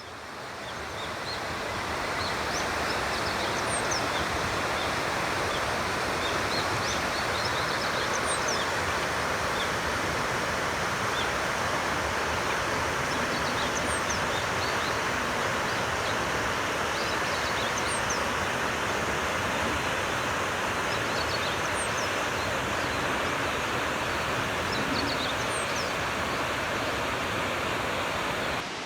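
River water flowing steadily, a constant rushing that fades in at the start. Small birds chirp faintly over it, with one high, falling chirp repeating about every four seconds.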